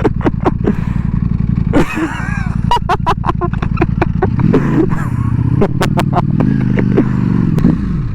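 Ducati Panigale V4S V4 engine idling steadily, its note wavering up and down in the second half, with sharp clicks throughout.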